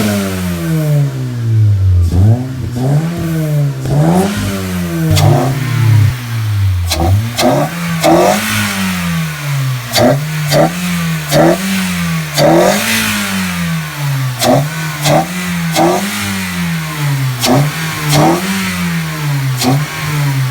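2008 Honda Civic with a full aftermarket exhaust system being revved in quick repeated blips, the exhaust note rising and falling about once a second. Sharp cracks sound near many of the rev peaks.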